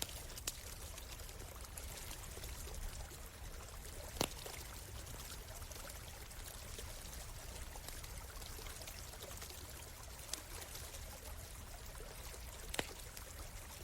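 Small stream flowing steadily, with a campfire crackling beside it: a few sharp pops, the loudest about four seconds in.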